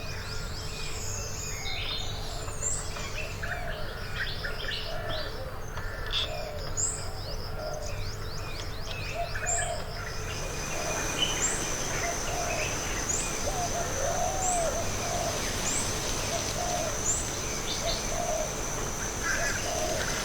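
Tropical forest bird chorus: a low call repeated about once a second under many high chirps and trills. About halfway through, a steady high whine with short chirps at even spacing joins in.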